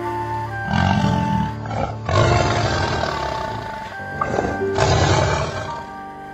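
A tiger roaring three times, the middle roar the longest, over steady background music.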